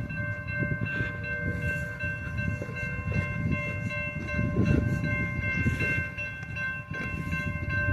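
Train noise: a low, uneven rumble from the railcars with a steady high-pitched whine of several tones held over it.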